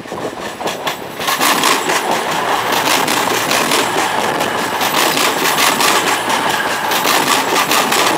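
CrossCountry Voyager diesel multiple unit passing close by: a loud rushing noise that swells about a second in and then holds steady, with a dense, rapid clatter all through it.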